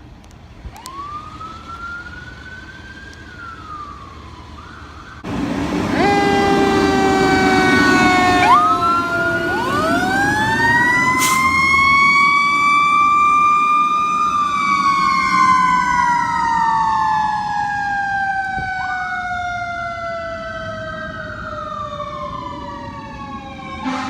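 Fire apparatus sirens on an emergency response. One siren wails up and down, then about five seconds in it gets much louder as a steady horn and further sirens join. For the last ten seconds one siren falls slowly in pitch.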